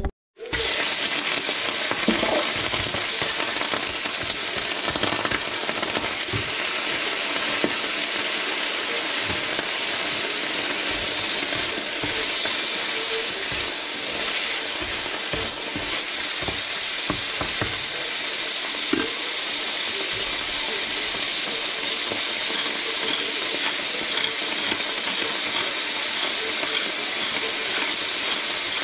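Food frying in a pan, a steady sizzle, with now and then a knock or scrape of a wooden spatula as it is stirred.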